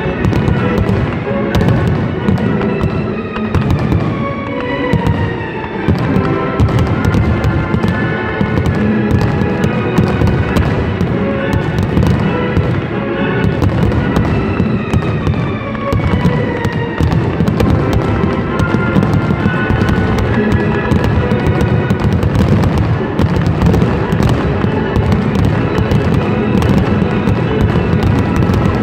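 Large fireworks display going off without pause, loud and dense with bangs and crackling from aerial shells and ground fountains, with music playing along.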